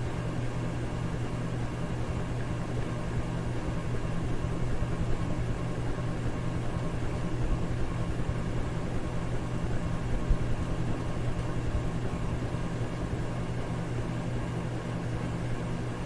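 Electric fan running steadily: an even whooshing of air over a low motor hum, with no change in speed.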